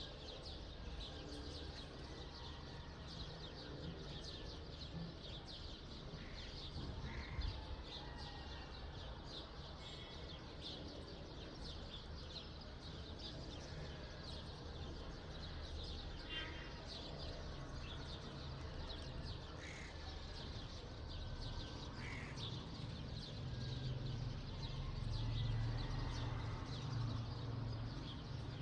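Dawn bird chorus: many small birds chirping continuously, with about five short, harsher calls standing out here and there. Under it runs a low rumble that grows louder near the end.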